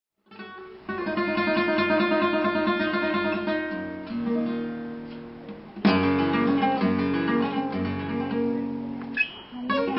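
Acoustic guitar music, picked and strummed, starting just after a moment of silence, with a loud strummed chord about six seconds in.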